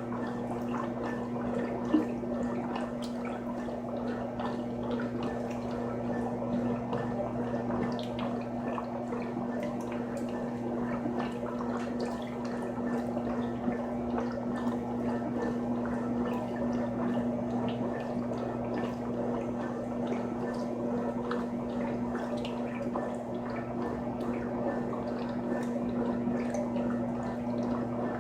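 Frigidaire Gallery Series top-loading washing machine running with water sloshing, gurgling and dripping inside the tub over a steady electric hum. There is one sharp tap about two seconds in.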